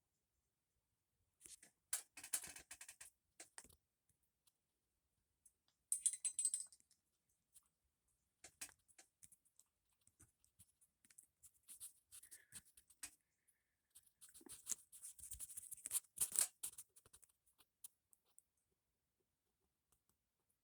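Pet parrot making irregular, light clicking and scratching sounds in scattered clusters, with the densest bursts about two seconds in, around six seconds, and again between fourteen and seventeen seconds.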